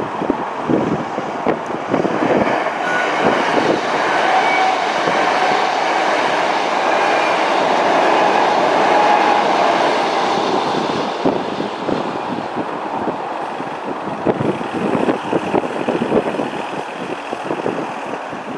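Electric passenger train passing over a level crossing at speed: a steady rushing rumble that builds over the first seconds, is loudest about eight to ten seconds in, then fades away.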